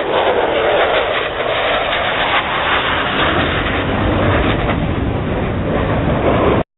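Loud, steady aircraft engine noise from a display aircraft at an airshow, cutting off abruptly near the end.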